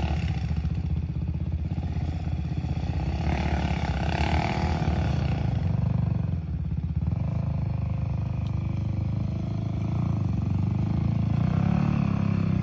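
Dirt bike engine revving hard under heavy load while climbing a steep hill, the revs rising about three seconds in and again near the end.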